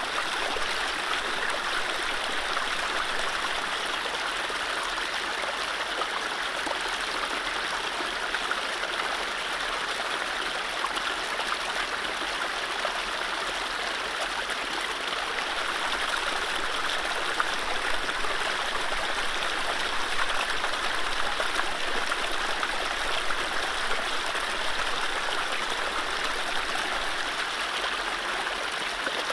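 Mountain stream running over low rapids: a steady rush and babble of water.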